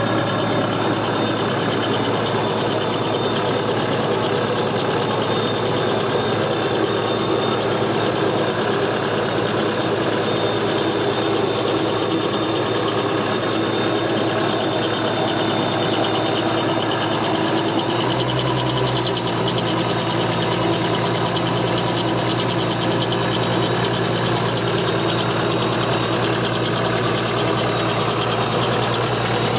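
Car engine idling steadily with a rattle that the owner takes for a rattling bearing. About eighteen seconds in, the low hum changes and deepens.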